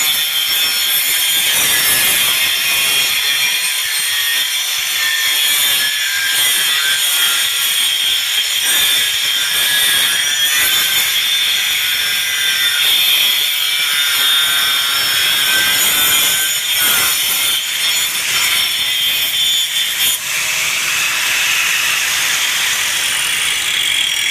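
Doliz BA 370 angle grinder (720 W, 12,000 rpm) running under load while cutting, a steady high whine over a continuous scraping, sawing noise. The tone shifts about twenty seconds in.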